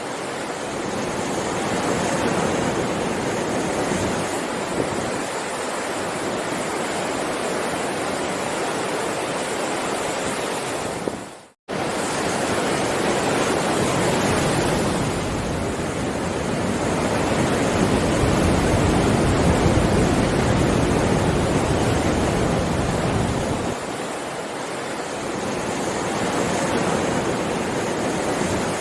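Heavy sea waves surging and washing in a continuous rush that swells and eases slowly. The sound drops out for a split second about eleven seconds in.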